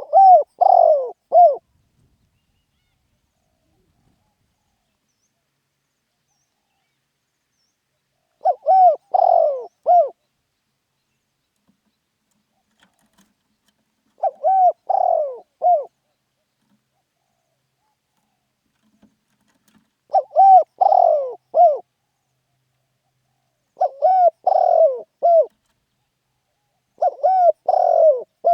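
Spotted dove cooing: six short phrases of three or four coos each, spaced several seconds apart, in the rousing "khan yon" call style prized by dove fanciers.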